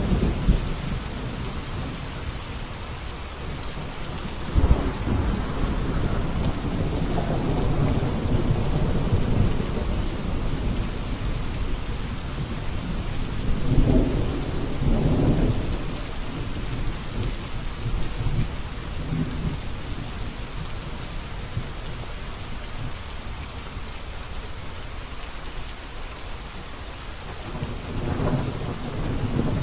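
Steady rain falling, with low rolling thunder that swells and fades three times: about five seconds in, around the middle, and again near the end.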